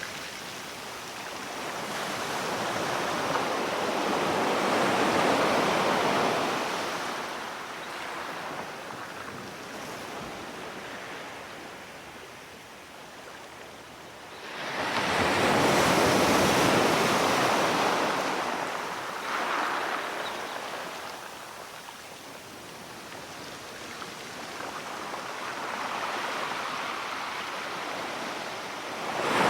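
Sea waves breaking and washing up on a shore, coming in slow surges several seconds apart. The strongest wave starts suddenly about halfway through, with smaller swells before and after.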